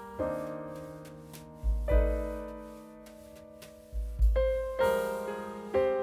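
Background piano music: gentle chords struck every second or two, each fading away, with deep bass notes underneath.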